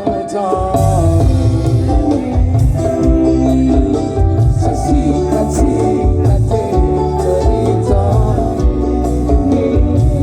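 Live dangdut koplo band playing an instrumental passage through a loud PA: a steady drum and bass beat under sliding melodic lead lines.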